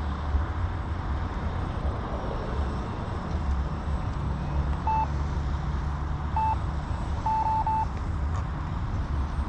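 Short electronic beeps from a hand-held RC transmitter: a single beep about five seconds in, another about a second and a half later, then three quick beeps near the end. They sound over a steady low rumble of wind on the microphone.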